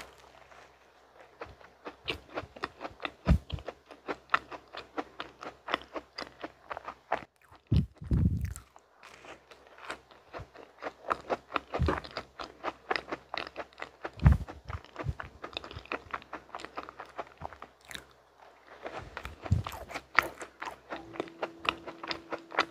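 Close-miked biting and chewing of a mint macaron and a small mint-chocolate piece: a dense run of small crunching and wet mouth clicks, with a few dull low thumps.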